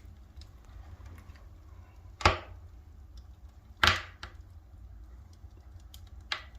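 Firewood crackling in the firebox of a wood-burning fireplace stove: scattered small ticks and three sharp pops, about two, four and six seconds in, over a steady low rumble.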